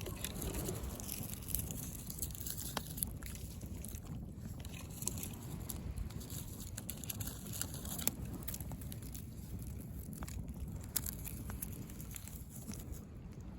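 Driftwood campfire crackling, with irregular sharp pops and snaps over a steady low rumble.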